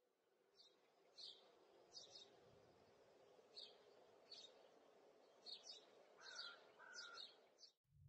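Faint bird chirps over a low steady background hum. There are short high chirps about once a second, then a couple of lower whistled notes near the end, and the sound stops abruptly just before the end.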